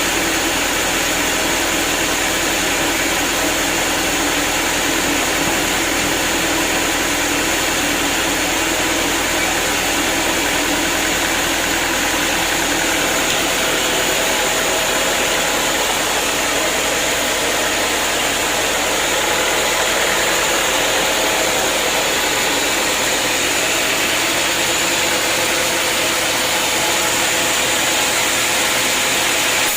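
Homemade band sawmill running steadily, its blade cutting along a hard acacia log.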